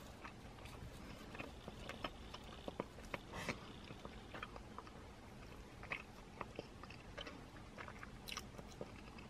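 Quiet chewing of a Popeyes buttermilk biscuit, with faint short mouth clicks scattered through.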